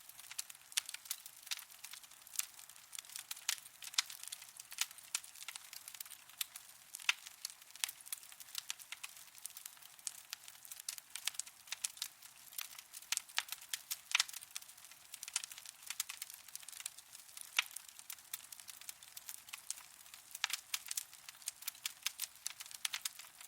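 Wood fire burning in a fireplace, crackling and popping continually with many sharp snaps over a soft hiss.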